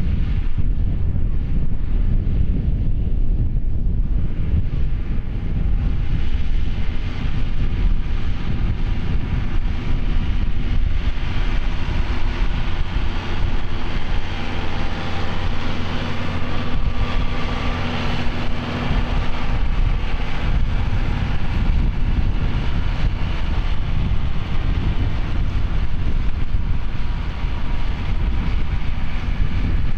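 John Deere 6150R tractor's six-cylinder diesel engine running steadily under ploughing load, with wind on the microphone. The sound grows brighter about five seconds in.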